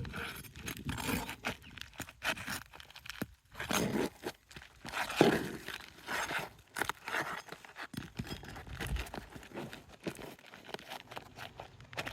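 Asphalt roof shingles being pried up and pulled loose, with irregular crunching, tearing and scraping. The roofer judges these shingles brittle.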